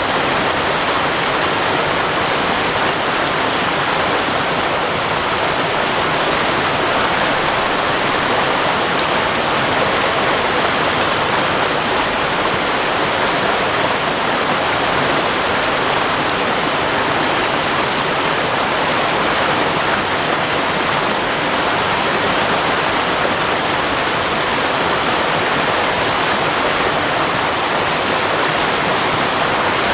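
Seasonal waterfall pouring and splashing onto rock, a steady rushing of falling water.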